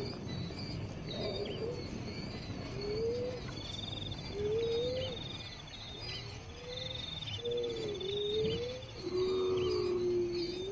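Birds calling: a string of low, rising-and-falling whistled notes about once a second, with short, fast high trills between them over a steady background hiss.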